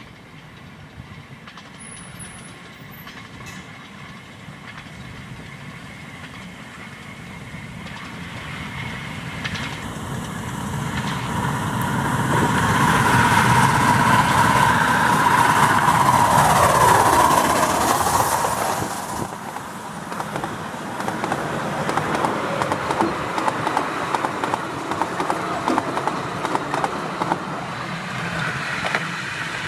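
Miniature steam railway train approaching and passing, growing louder to a peak about halfway through, with a ringing tone from the rails that drops in pitch as it goes by. Then comes a fast, steady clickety-clack of wheels over the rail joints.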